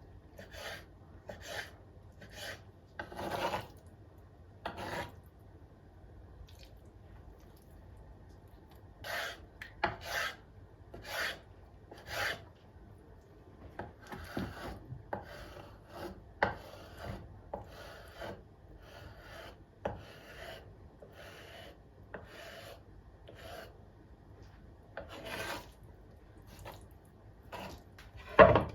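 Repeated rasping, scraping strokes at irregular intervals, roughly one a second, from kitchen food preparation, with one sharp knock near the end.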